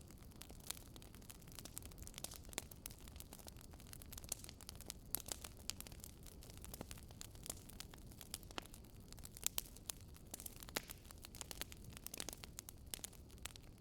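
Wood fire crackling: irregular small pops and snaps over a faint, steady low rustle, with a few sharper pops standing out.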